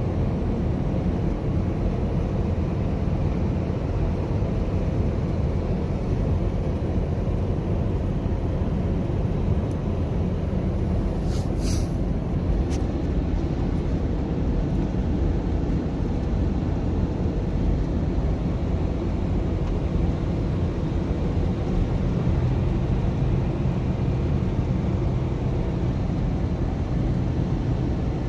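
Steady engine and road rumble inside a moving vehicle's cab at highway speed, with a brief sharp click or knock about eleven seconds in.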